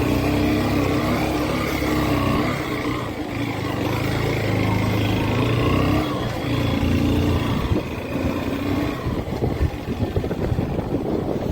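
Motorcycle engine revving up and down as it labours over a badly broken road, then dropping after about eight seconds to a slower, uneven running.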